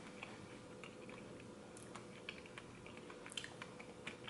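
Faint chewing of a first bite of pork tenderloin, mashed potatoes and carrots, with small scattered clicks of the mouth.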